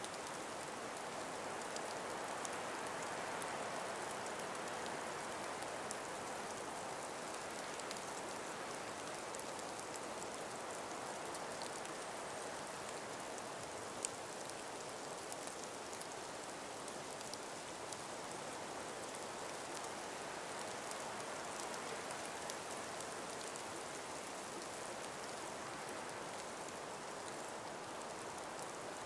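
Calm winter breeze through an ice- and snow-laden forest: a steady, soft rushing with faint scattered ticks, one a little sharper about halfway through.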